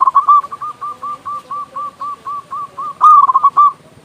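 Zebra dove (perkutut) singing its staccato cooing song. A loud opening note is followed by a run of short, even coos about four a second, then a louder, faster flourish near the end. Another dove coos faintly at a lower pitch behind it.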